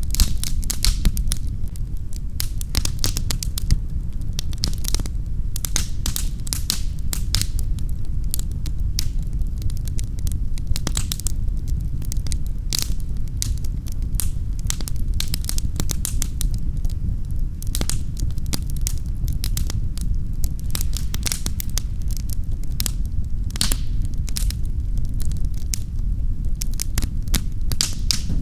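Wood fire crackling in a fireplace: a steady low rumble of flame with dense, irregular pops and snaps.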